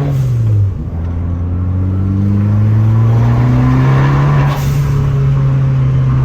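Fiat 500 Abarth's turbocharged 1.4-litre four-cylinder pulling through a gear. The revs drop at a shift near the start, then climb with a building turbo hiss. About four and a half seconds in there is a short, sharp whoosh as the Turbosmart blow-off valve vents when the throttle lifts.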